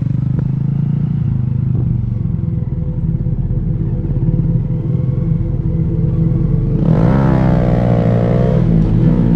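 Sportbike engine running steadily while riding, with a second engine note about seven seconds in that rises in pitch as it revs up, holds, then drops away near the end.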